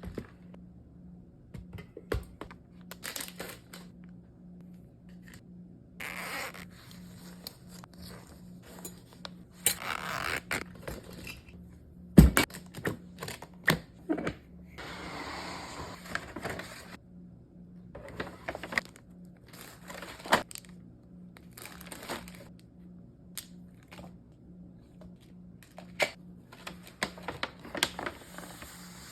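Kitchen handling sounds of lunch being packed: scattered clinks and knocks of containers and utensils with short stretches of scraping and rustling packaging, the loudest a sharp knock about twelve seconds in. A steady low hum runs underneath.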